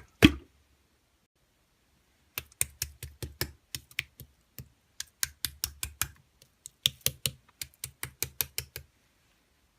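A quick series of uneven clicks and taps, about three to four a second, in two runs with a short pause between them, like typing on a keyboard.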